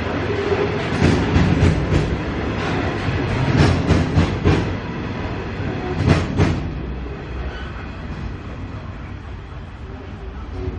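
Loaded coal wagons rolling past, their wheels clacking over rail joints. The sound grows quieter after about six and a half seconds.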